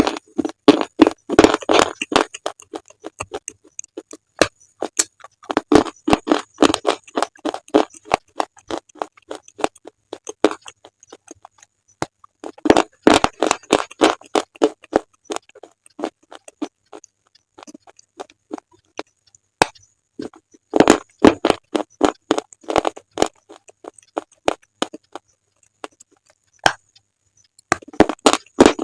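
Close-miked crunching of slate being bitten and chewed. It comes in dense runs of sharp cracks a few seconds long, about every seven seconds, with single snaps in between.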